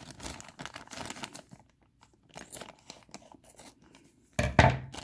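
Plastic packaging bags being handled and torn open, with scattered crinkling rustles and quiet gaps between them. One short louder sound comes near the end.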